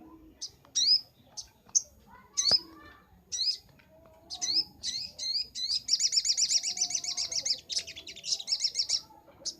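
Little spiderhunter (sogok ontong) singing: a series of sharp, high, rising chirps, then from about six seconds in a rapid rattling trill of repeated notes lasting about three seconds.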